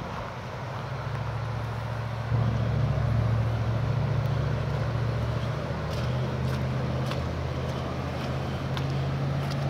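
A motor vehicle's engine running steadily as a low hum, which grows louder about two seconds in, over the even rush of swollen floodwater.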